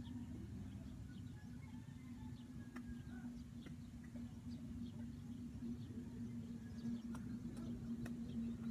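An engine running steadily at a constant speed, a low hum, with faint short chirps and ticks over it.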